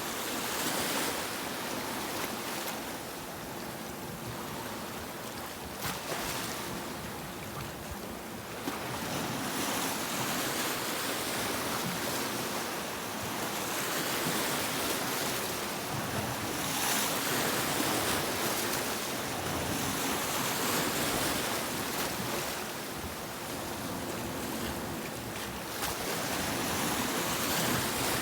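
Sea waves breaking on a beach: a continuous surf wash that swells and eases over several seconds, with louder surges of breaking water at intervals.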